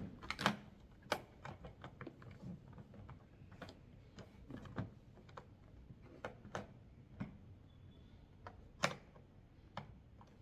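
Irregular light clicks and knocks of hard plastic vacuum cleaner parts being handled and fitted, about one or two a second.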